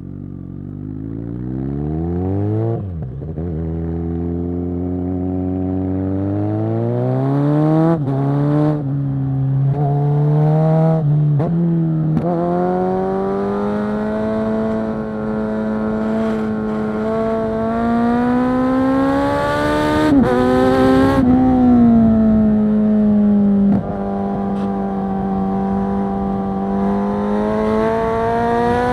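2022 Kawasaki Z900 SE's inline-four engine through a Zard full-system exhaust, pulling hard up through the gears with a quick drop in pitch at each upshift over the first twelve seconds or so. It then runs at steady, slowly rising revs, with a short dip and blip of the throttle about twenty seconds in.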